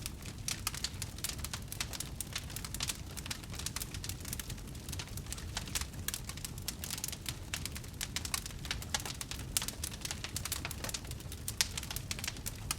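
Wood fire crackling: a dense, irregular run of small sharp pops and snaps over a steady low rumble.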